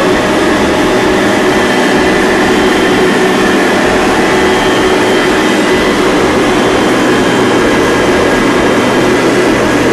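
Hoover Platinum Collection bagged upright vacuum cleaner running steadily on its high setting: a lower, dampened motor sound without a high shrill whine.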